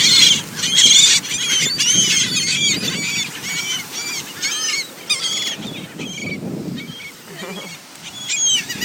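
A flock of seagulls calling over one another as they crowd in to be fed, many short, high calls in quick succession, loudest at the start and thinning out after about halfway.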